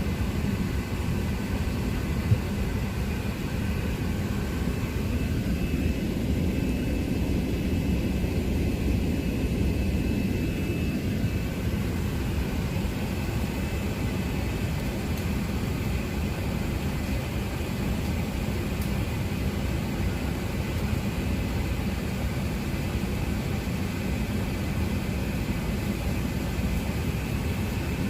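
Steady jet-airliner rumble of an Airbus A380, engine and airflow noise heard from inside the cabin, with faint steady whining tones over the low roar. A single brief click about two seconds in.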